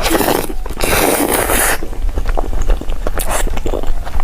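Close-miked eating sounds of cake being bitten and chewed: a dense, noisy stretch in the first two seconds, then small wet clicks and smacks.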